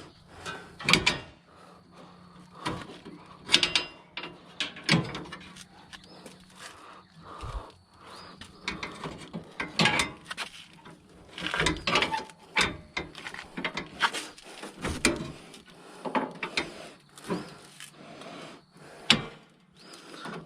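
Irregular clinks, clicks and knocks of hand tools and metal car-body parts being handled and fitted during front-end reassembly, a few of them sharp and loud. A faint low hum stops about a third of the way through.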